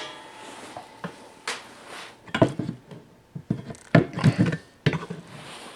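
Irregular knocks, clicks and clatter of tools and small parts being handled on a work surface, with a few louder knocks about midway.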